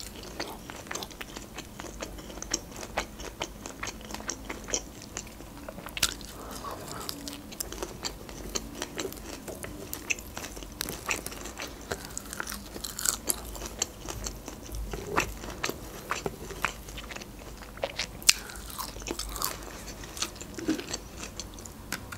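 Close-up eating sounds of a person biting into and chewing lahmacun, Turkish minced-meat flatbread, wrapped around fresh parsley: a steady run of many short, irregular mouth clicks and bites.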